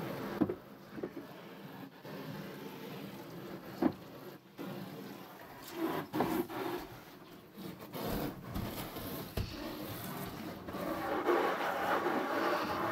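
Water and rubbing sounds of a car being washed, with a few sharp clicks, the washing noise growing louder near the end.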